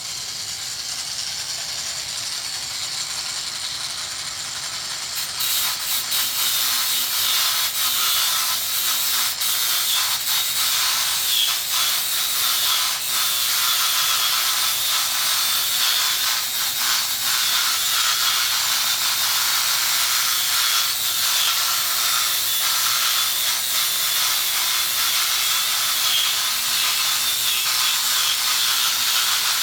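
Proxxon long-neck mini die grinder running at high speed with a sanding wheel. About five seconds in, the wheel is put to the workpiece and the sound gets louder, with a continuous scratchy grinding of abrasive against the surface.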